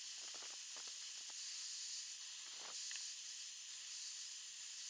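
Faint steady hiss, with a few soft light clicks in the first second and a half and another near the middle.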